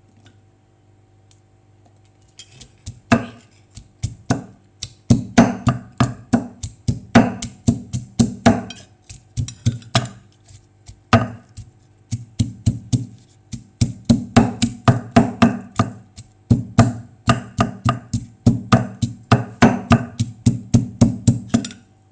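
Pestle pounding garlic and chilies in a mortar for som tum: repeated dull knocks, about three a second, in runs broken by short pauses, starting a couple of seconds in.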